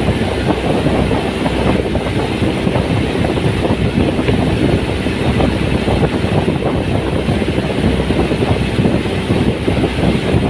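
Motorboat running steadily under way, its engine and water noise a dense, even rumble.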